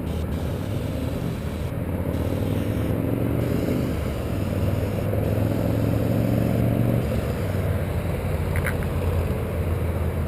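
An engine running steadily with a low hum. Its pitch shifts slightly between about two and seven seconds in.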